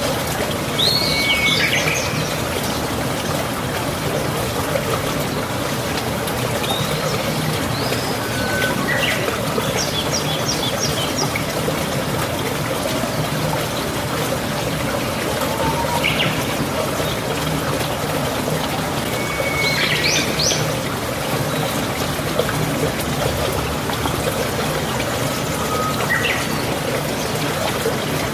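Birds chirping now and then, short high calls every few seconds, over a steady rushing background noise.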